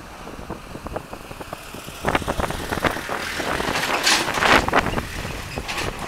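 Strong wind gusting and buffeting across the microphone, over the jet engine noise of a landing Airbus A320. The gusts come in uneven surges, strongest about two thirds of the way through.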